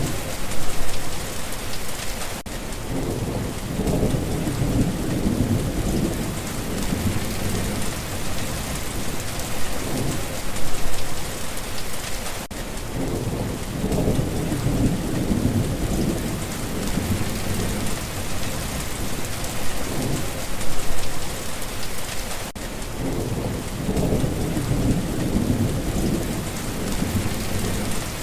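Steady rain falling, with low rolls of thunder that swell and fade three times, about ten seconds apart.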